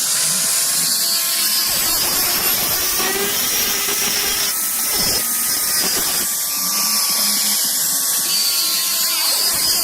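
Electric power tool running on metal: a steady motor whine that sags and recovers in pitch under load, over a loud continuous high hiss.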